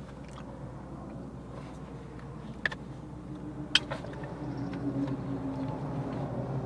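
Motor vehicle engine running steadily, getting gradually louder toward the end, with two sharp clicks in the middle.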